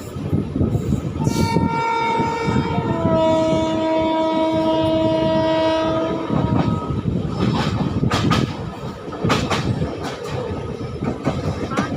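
Train horn sounding one long blast of about six seconds that steps down to a lower pitch partway through, over the steady running noise of a moving express train. After the horn, a run of sharp clacks from the wheels over rail joints.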